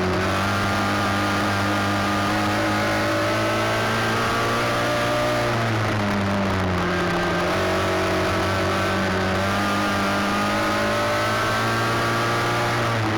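Race car engine running hard, its pitch falling about five seconds in and climbing back up, then easing and building again near the end.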